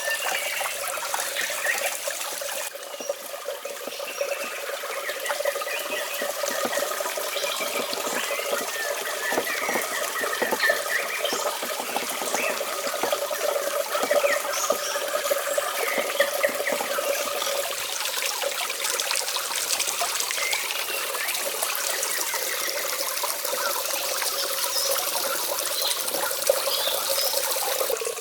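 Water running and trickling steadily, with many short high chirps over it.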